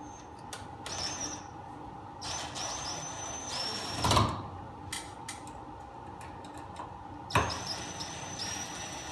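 Hand work fastening a porcelain lamp holder to its metal electrical box: scattered clicks, two knocks about four and seven seconds in, and stretches of short, high squeaks as screws are driven, over a steady hum.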